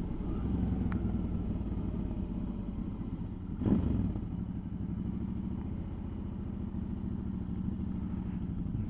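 Suzuki V-Strom motorcycle engine running steadily at low speed, with a brief louder swell about three and a half seconds in.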